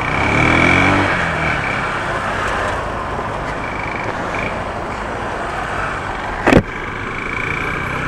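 Honda CG 150 single-cylinder motorcycle engine picking up revs about a second in, then running under a steady rush of road and traffic noise. A single sharp knock about six and a half seconds in is the loudest moment.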